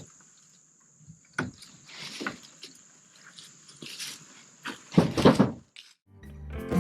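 Scattered knocks and rustling handling sounds over a steady high-pitched hiss, with a louder clatter about five seconds in; the sound cuts off and acoustic guitar music begins near the end.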